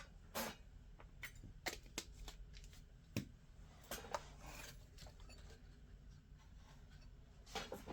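Faint scraping and scattered clicks from hand tools working on a circuit board, with a few sharper ticks among them.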